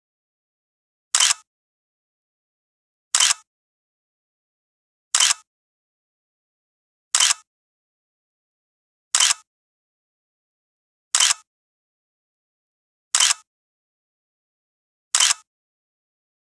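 An edited-in click sound effect, of the kind used for a camera shutter in a photo slideshow, sounding eight times at even two-second intervals. Each click is short and sharp, with complete silence between them.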